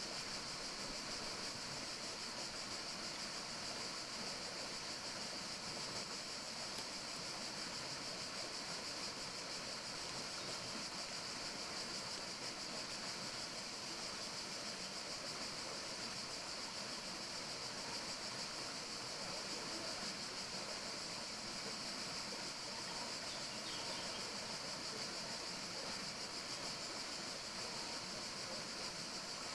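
Steady forest ambience: an even, unbroken hiss, brightest in a high band, with no distinct calls or events.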